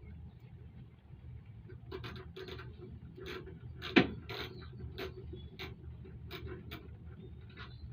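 Hand tools working on metal motorcycle-rack hardware: a string of irregular short clicks and taps, with one sharp loud knock about halfway through.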